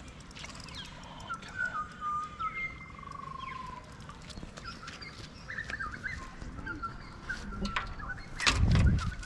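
Birds chirping and whistling, with short whistled notes and a falling trill about three seconds in. A brief loud low rumble comes shortly before the end.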